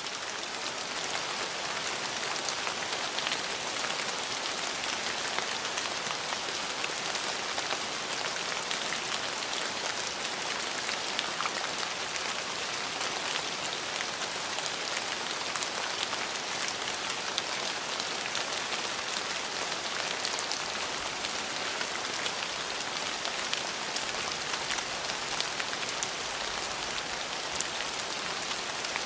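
Steady rain falling on a hard surface, an even hiss dotted with fine, close-spaced drop ticks.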